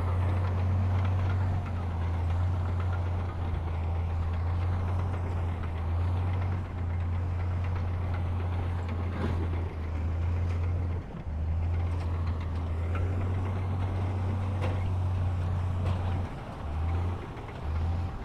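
Diesel engine of heavy earthmoving machinery running steadily with a deep drone, with a few faint knocks. The drone turns choppy near the end.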